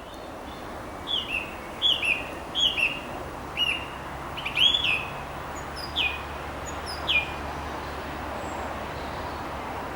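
A thrush singing: a run of short, clear whistled notes, each falling in pitch, loudest about halfway through, the song stopping a little after seven seconds in. A steady low background rumble runs underneath.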